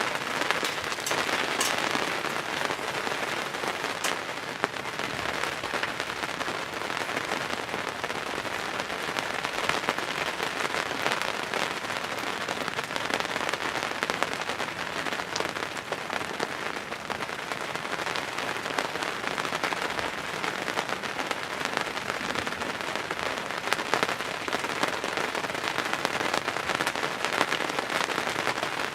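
Steady rain falling on a hunting ground blind, a continuous hiss dotted with many separate drops ticking on the fabric.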